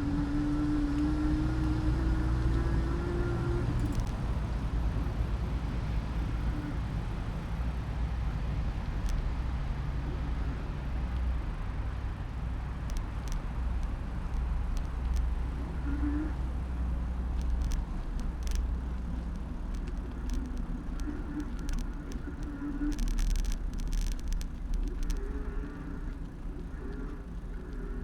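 Low road rumble and wind on a handlebar-mounted camera as a bicycle rides through city traffic, with a motor vehicle's engine note rising in pitch in the first few seconds. Scattered sharp clicks and rattles come through the middle and later part.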